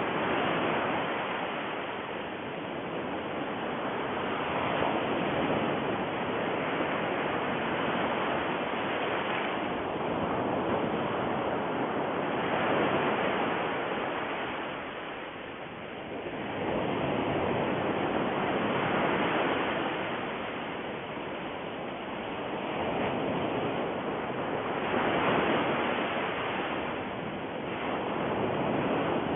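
A steady rushing noise that slowly swells and fades about every six seconds.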